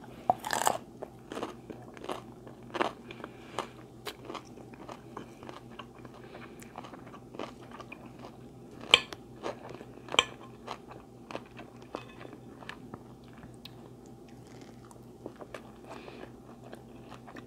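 A person chewing and biting food close to the microphone, with irregular sharp clicks throughout; the loudest come about half a second in and again around nine and ten seconds in.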